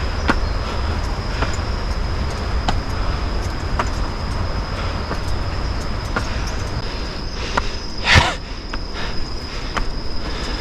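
Steady roar of a high-volume waterfall, with a thin steady high tone above it and scattered light clicks. A brief, louder rush comes about eight seconds in.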